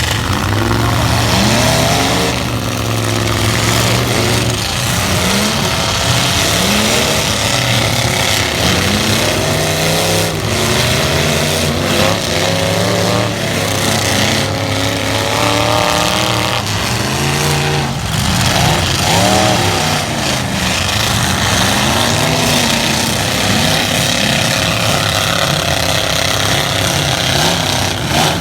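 Several light-truck engines revving hard in a demolition derby, overlapping, their pitch rising and falling again and again. A few sharp knocks stand out among the engine noise.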